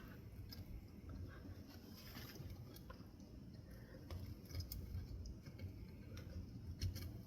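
Faint handling noises with a few scattered light clicks, as the parts of a ceiling fan motor are fitted back together by hand.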